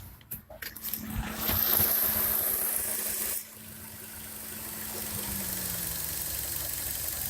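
Fiat Grande Punto's air-conditioning compressor humming over the running engine. The hum holds steady, then falls in pitch and fades about five seconds in. A loud hiss cuts off sharply about three and a half seconds in.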